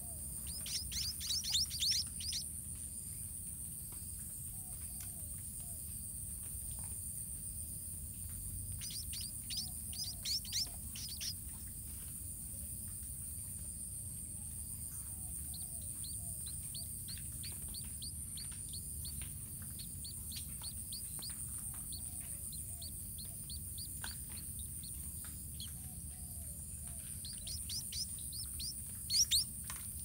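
Small birds chirping: three short bursts of quick, high chirps, with a run of fainter chirps in between. A steady high hiss runs underneath.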